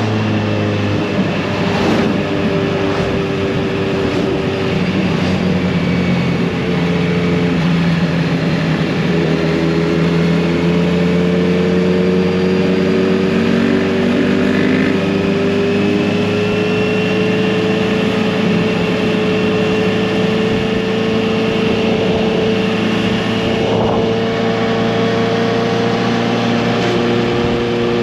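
Kawasaki Z900RS inline-four exhaust while riding, holding a steady engine note that slowly rises. The note breaks off and picks up again about nine seconds in.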